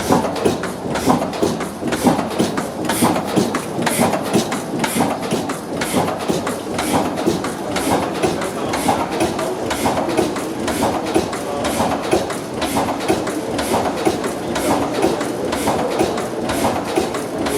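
Deutz large stationary diesel engine running with a steady, rhythmic clatter.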